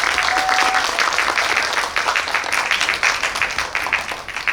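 Audience applauding: dense, many-handed clapping that thins out and fades near the end.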